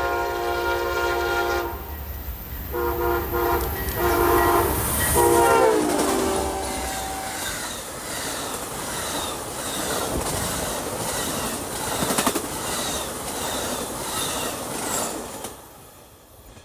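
Diesel locomotive's multi-chime air horn sounding the grade-crossing pattern, long, long, short, long, the last blast dropping in pitch as the locomotive passes. The train's cars then roll by with rhythmic clickety-clack of wheels over rail joints, fading away near the end.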